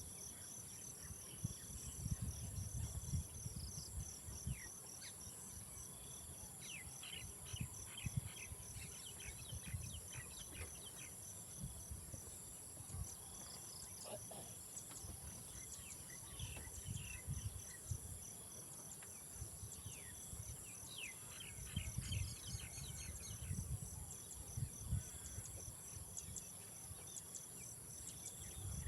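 Outdoor insect chorus: a steady high-pitched insect drone with a rapidly pulsing cricket chirp underneath. Scattered short bird chirps come and go over it, and a low rumble swells at times, strongest a couple of seconds in and again past the two-thirds mark.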